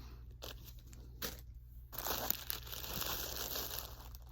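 Plastic packaging crinkling as it is handled and opened: a few short crackles, then about two seconds of continuous crinkling rustle.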